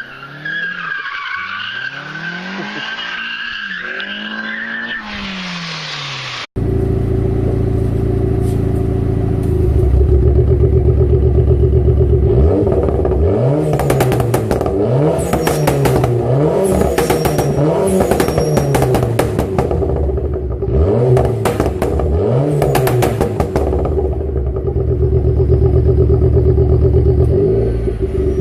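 Mazda Miata tires squealing in a burnout while the engine revs up and down. After a cut, a Miata engine runs loud at high revs, its pitch sweeping up and down again and again, with bursts of sharp crackling.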